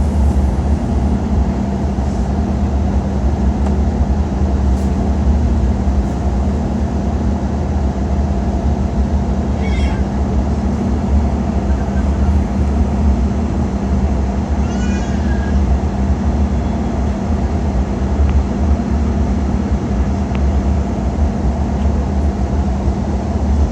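Steady low drone inside an Embraer E190 airliner cabin during descent, from the jet's engines and the airflow over the fuselage.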